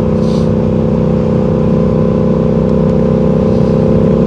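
Motorcycle engine running at a steady cruising speed, its note held at an even pitch, with road and wind noise. A short hiss comes about a third of a second in.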